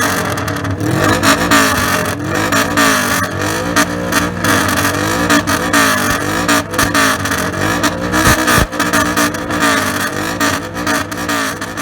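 Straight-piped engine exhaust revved in a "call": repeated throttle blips that rise and fall in pitch about once or twice a second, with more engine noise running underneath.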